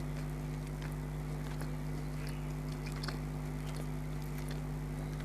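Faint chewing with small, scattered mouth clicks, over a steady electrical hum.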